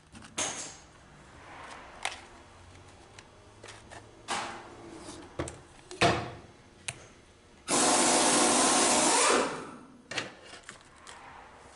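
Light knocks and clicks of transmission parts being handled, then one steady, loud hiss lasting under two seconds, a spray used to clean the valve body plate.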